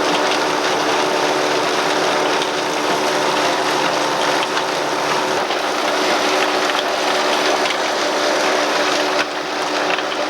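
Farm machinery running steadily: a constant mechanical hum with several steady tones over a dense rattle.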